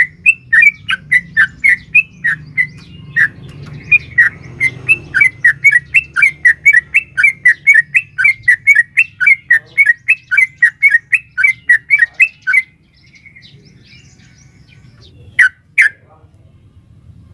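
Yellow-vented bulbul (trucukan) giving a long, fast run of loud, sharp chattering notes, about three to four a second. The run stops about 13 seconds in and is followed by a brief double note near the end.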